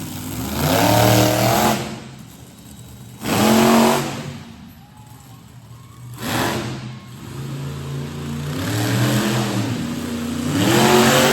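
Monster truck engines revving hard in about four bursts, the pitch climbing in each before dropping back, with quieter idling between.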